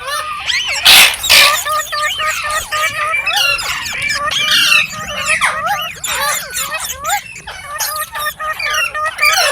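Ringneck parrot chattering: rapid, squeaky calls that glide up and down, with a loud harsh screech about a second in.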